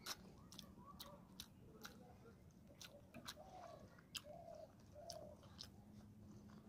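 Quiet, wet chewing and mouth clicks from a person eating rice and fish curry by hand. Several short bird notes sound in the background through the middle.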